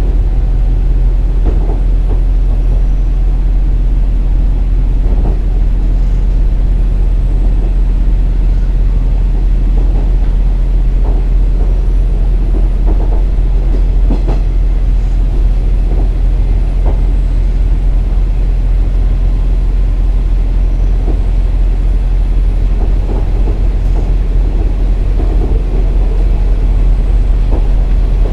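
JR Kyushu KiHa 47 diesel railcar under way: a steady low diesel engine drone with the rumble of wheels on rail and scattered faint clicks from the track.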